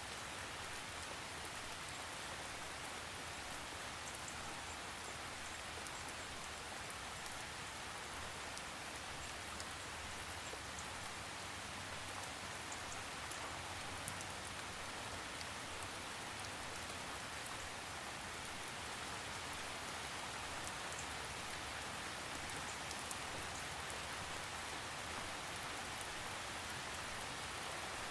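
Steady rain falling, with no thunder: an even hiss with faint scattered drop ticks.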